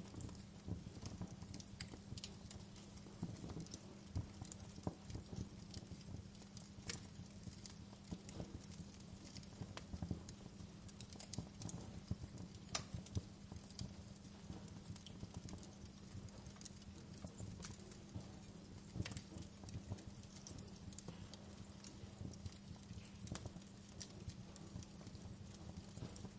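Wood fire crackling: irregular sharp pops and snaps, some louder than others, over a low rumble and a steady low hum.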